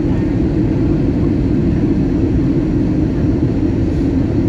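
Steady low rumble of a jet airliner's engines and airflow heard inside the passenger cabin during the descent to landing.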